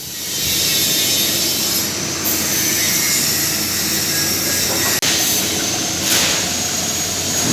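Steady, loud machinery noise in a workshop, a continuous roar with faint steady tones in it and a brief break about five seconds in.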